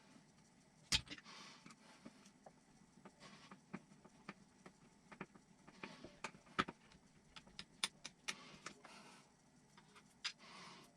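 Faint clicks and taps of small parts and tools being handled during RC kit assembly, with short rustles every few seconds; the sharpest click comes about a second in.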